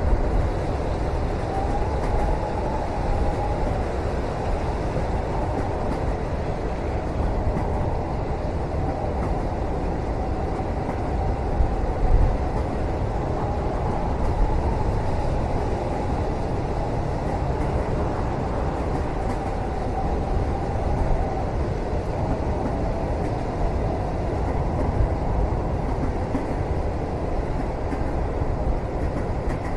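Steady low rumble of a moving train heard from inside a passenger cabin, with a faint wavering whine over it and a brief louder knock about twelve seconds in.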